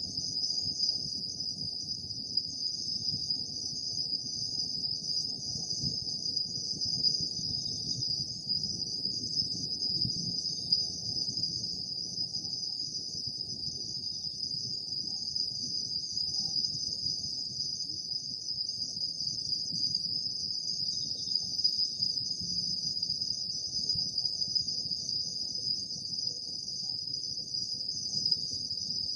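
Chorus of insects on an autumn night, a continuous high-pitched trilling that never lets up, over a soft low rumble.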